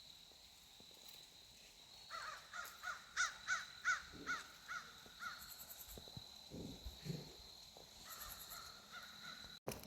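A bird outdoors calling a quick series of short, harsh notes, about three a second, then a fainter run of calls near the end, with a faint steady high-pitched tone underneath.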